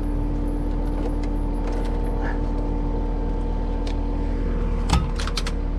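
Cat 259D compact track loader's diesel engine running steadily, with a sharp clunk and a few clicks about five seconds in.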